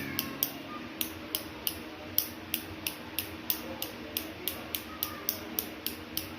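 Sharp, evenly spaced clicking, about three clicks a second, with the tail of a guitar chord dying away at the start.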